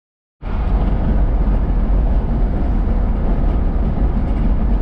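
Steady low road and engine noise inside a moving vehicle's cabin, cutting in abruptly about half a second in.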